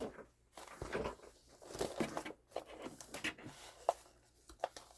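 Crinkling and rustling of packaging being handled on a craft table, in irregular bursts with a sharp click just before the four-second mark.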